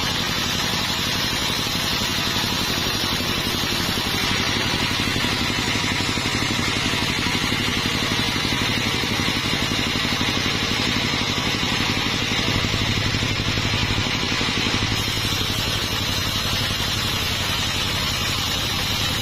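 Sawmill machinery running steadily, an engine-like hum with an even pulse and no breaks.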